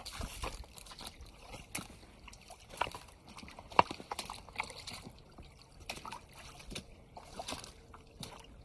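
Footsteps wading through a shallow creek: water sloshing and trickling around the feet, with scattered knocks, the sharpest about four seconds in.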